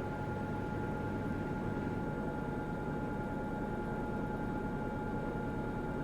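Washing machine running partway through a quick wash programme: a steady hum and rumble with two steady whining tones over it, unchanging throughout.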